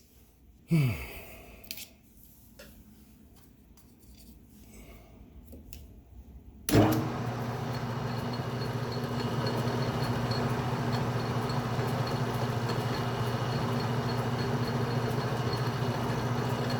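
Atlas metal lathe's electric motor switched on a little under seven seconds in, then running with a steady hum. Before that, a brief falling whine about a second in and a few seconds of small clicks from handling the machine.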